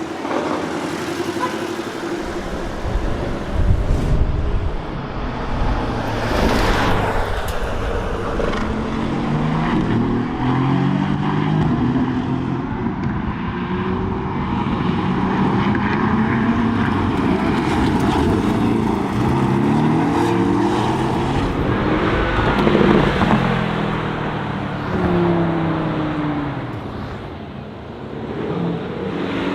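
Porsche Cayman S engine under hard acceleration. It revs up repeatedly through the gears, each climb in pitch broken by a drop at the shift.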